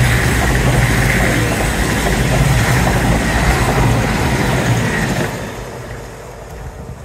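CrossCountry Voyager diesel multiple unit passing close by, its underfloor diesel engines humming under the rush of wheels on the rails. About five seconds in the sound starts to fade steadily as the train runs off into the distance.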